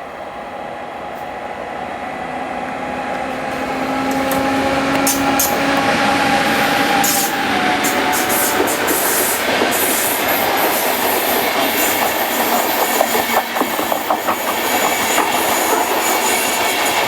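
Electric train on the main line, approaching at reduced speed through a speed restriction and then passing close by. It grows louder over the first five seconds or so, with a steady tone early on, then becomes a steady rush of wheels with rapid clicking and clattering over the rail joints.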